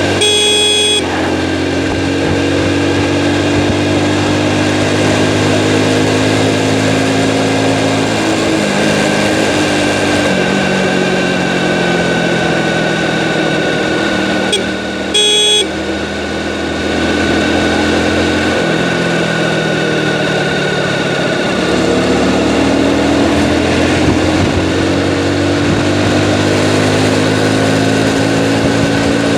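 Hero motorcycle engine running while riding, its pitch falling and rising as the speed and gears change. A horn sounds briefly twice, at the start and about halfway through.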